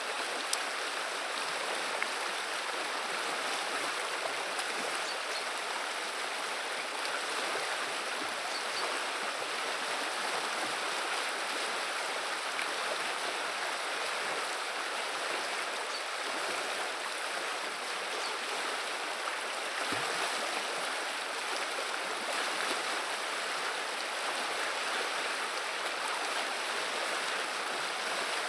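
The Viliya river flowing: a steady, even rush of running water.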